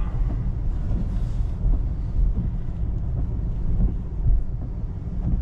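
Steady low road rumble heard inside the cabin of a moving 2024 Tesla Model 3, an electric car, so there is tyre and road noise but no engine.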